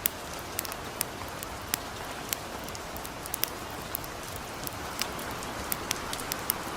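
Gentle rain falling with a steady hiss, mixed with a campfire crackling: irregular sharp pops a few times a second.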